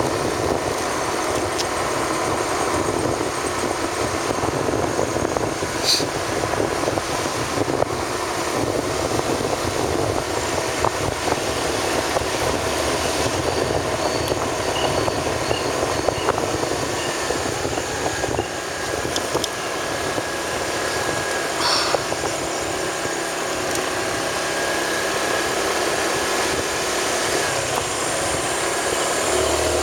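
A vehicle running steadily along a rough road, with engine and road noise throughout and a couple of brief clicks or knocks.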